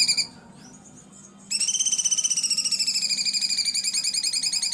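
A songbird's harsh, rapid trill of close-set pulses, one phrase of about three seconds after a short pause. It is a coarse 'tembakan' burst of the kind used as masteran song for tutoring cage birds.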